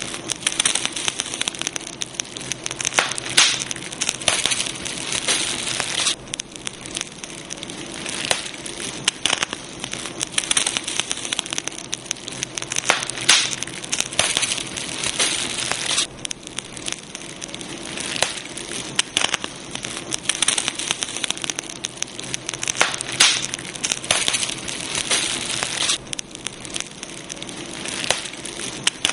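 Campfire crackling, with many sharp pops and snaps over a steady hiss.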